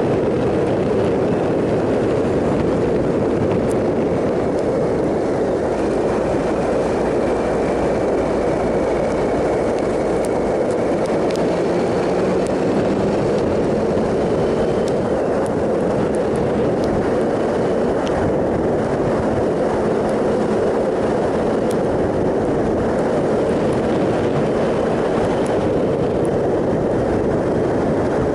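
2007 Triumph Sprint ST 1050's three-cylinder engine at a steady cruise, largely buried under constant wind rush on the microphone. The faint engine note shifts slightly in pitch now and then.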